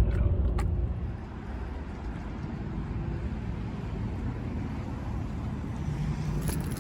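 Steady low road and engine rumble inside a moving car's cabin, easing slightly about a second in, with a couple of faint clicks near the end.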